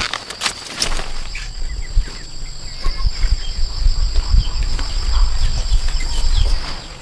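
Low rumbling and thudding, like handling or footsteps close to the microphone, over a steady high-pitched insect drone. The rumbling starts about a second in and dies away shortly before the end.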